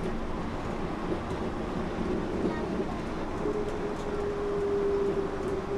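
Yurikamome rubber-tyred automated guideway train running between stations, heard from inside the car: a steady rumble of running noise with a steady motor whine that rises to a higher pitch about three and a half seconds in.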